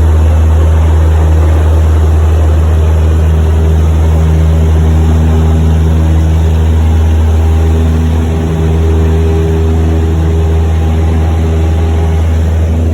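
Cessna 172's piston engine and propeller running steadily, a loud deep drone with a slight dip in level about two-thirds of the way through.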